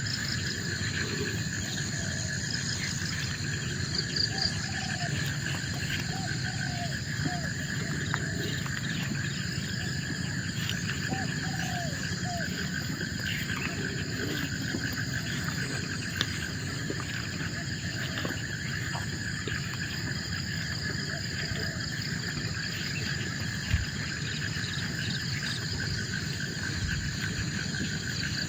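Forest insects droning steadily in several overlapping pitches, with short chirping calls of some other animal scattered through the first half and a few faint clicks.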